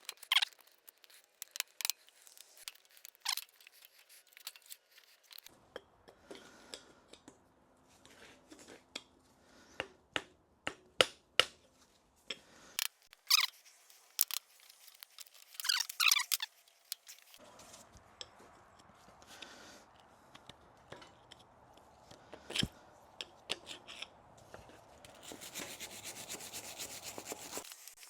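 Hand tool scraping and picking at rust around the snap rings of a rusted U-joint: irregular metal scrapes and clicks, with a steadier rasping stretch near the end.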